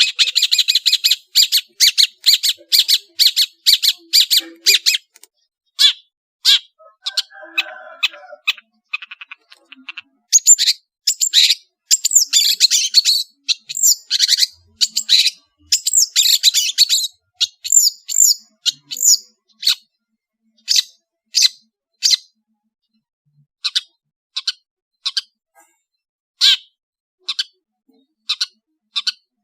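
Long-tailed shrike (cendet, Madura type) singing a varied song: fast runs of sharp, high, chattering notes, then sparser single sharp calls in the last third.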